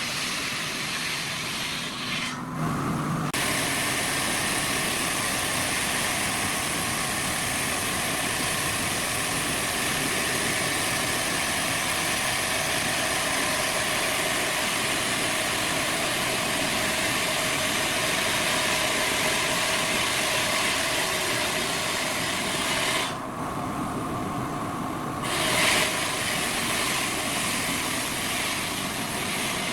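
Heavy machinery running steadily with a constant hiss, changing abruptly twice, about two seconds in and again about three-quarters of the way through.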